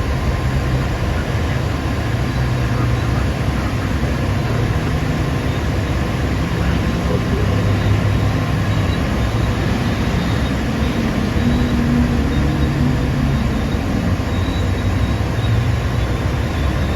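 Diesel engine of a Hitachi EX2500 mining excavator running under load: a loud, steady low rumble that swells and eases as the machine works.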